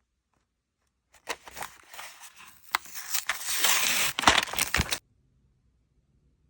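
Small plastic toy pieces being handled: crinkling and scraping with several sharp clicks. It builds up and then cuts off suddenly about five seconds in.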